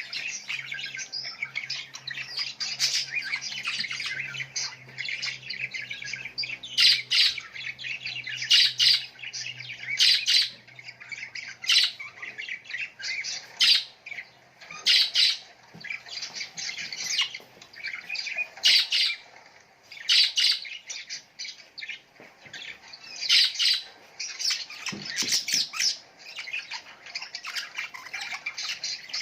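Small songbirds chirping and twittering continuously, with loud sharp calls repeating every second or two.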